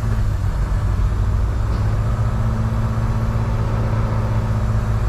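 A semi truck's diesel engine running steadily, a low even drone with no change in pitch.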